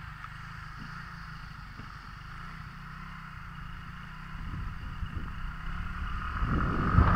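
Wind noise buffeting the built-in microphone of a helmet camera on a scooter rider, with the scooter running underneath. The rumble grows steadily louder over the last few seconds as the scooter picks up speed.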